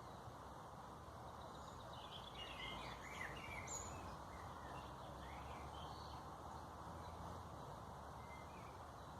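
Small birds chirping: a quick run of short chirps a couple of seconds in, then a few single calls later, over a steady low background hiss.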